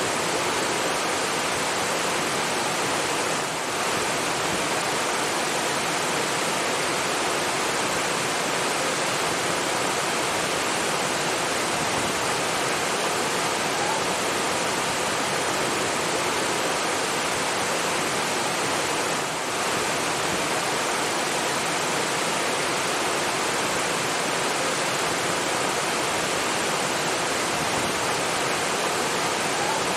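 Steady rushing water, like a waterfall or fast stream, an even unbroken hiss that dips briefly twice.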